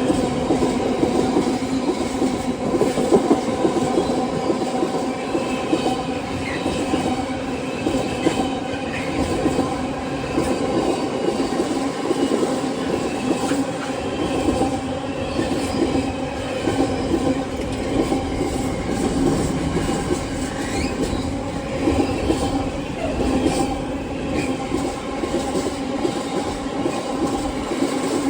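Freight train hauled by a Class 66 diesel locomotive passing through a station: a steady rolling clatter of wheels over the rails with a drone of several steady tones beneath it, unchanged throughout.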